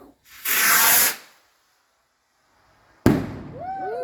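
Firework rocket launching with a loud whoosh of hiss lasting under a second. About two seconds later comes a sudden sharp bang, followed by tones sliding down in pitch.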